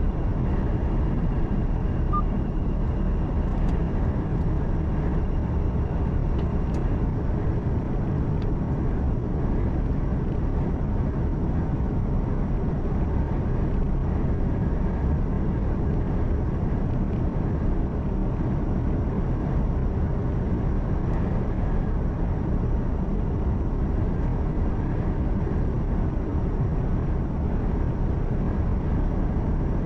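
Steady low drone of a truck's engine and tyre noise, heard from inside the cab while cruising on the highway, with a few faint ticks.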